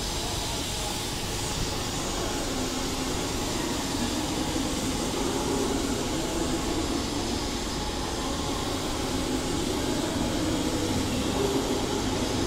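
Steady rumble and hum of electric suburban trains in a station train shed, swelling a little from about four seconds in.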